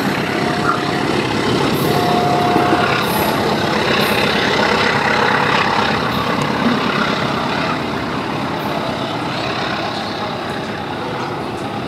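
A passenger train's rear cars rolling away along the track, with steady wheel and running noise that eases a little past the middle as the train moves off.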